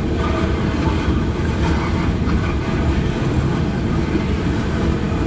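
Freight train cars rolling past at a grade crossing: a steady, low rolling noise of steel wheels on rail.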